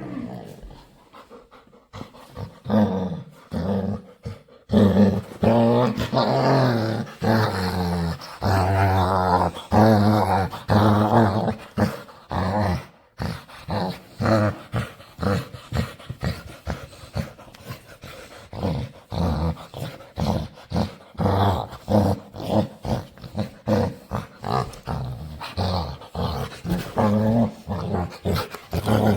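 Playful pet dog making weird vocal noises. It gives long pitched sounds that waver up and down through the first half, then a quick run of short, repeated sounds, about two to three a second.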